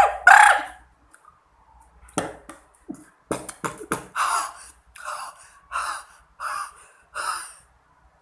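Vocal beatboxing by a child: a pitched vocal sound at the start, then a few sharp mouth pops and clicks, then a run of five breathy hissing strokes about one every three-quarters of a second.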